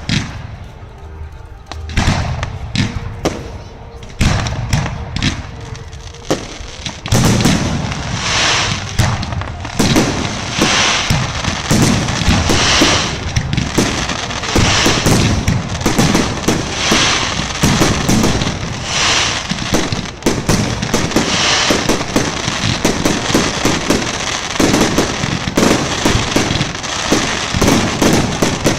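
Fireworks display: scattered bangs at first, then from about seven seconds in a dense, continuous barrage of bangs and crackling.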